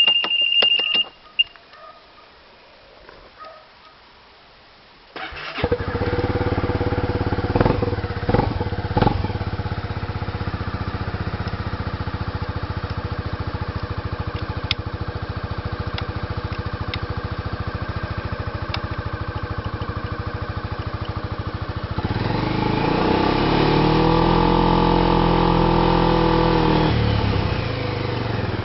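Honda Forza Z (MF10) 250 cc single-cylinder scooter engine breathing through an aftermarket Moriwaki muffler. A steady high beep cuts off about a second in, and the engine starts about five seconds in. It settles into an even idle with a few brief blips, then revs up and holds for about five seconds before dropping back to idle near the end.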